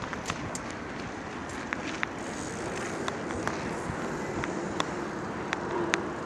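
Steady wind and rolling noise on a body-worn camera during a bicycle ride, with irregular sharp clicks and rattles.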